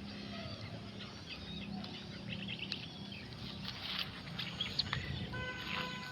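Rural outdoor ambience with small birds chirping now and then over a low steady background hum. A few sharp clicks come about two-thirds of the way in, and a short held tone near the end.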